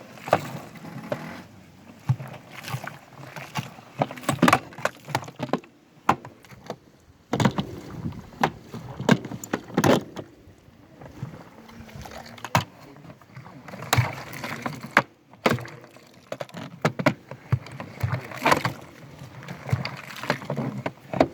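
Water sloshing and splashing inside an Indesit WIE127 washing machine drum during a drum clean, with irregular knocks and clatters.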